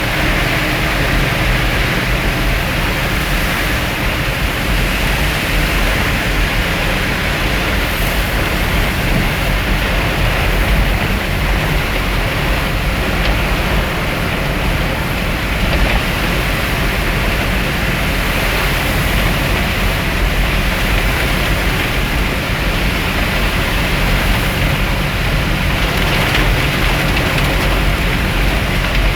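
Heavy rain falling steadily over the low rumble of a vehicle on the move.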